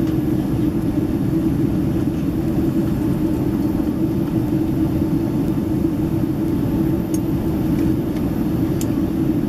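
Steady cabin roar inside a Boeing 767-300ER airliner during descent: engine and airflow noise, deep and constant with a hum underneath. A couple of faint clicks sound near the end.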